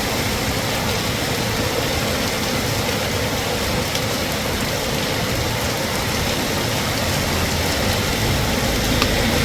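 Heavy rain pouring steadily: a dense, even hiss with no let-up.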